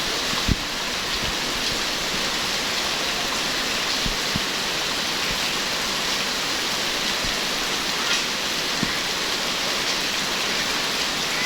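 Heavy rain falling steadily as a dense hiss, with a few louder, low drop thuds close by.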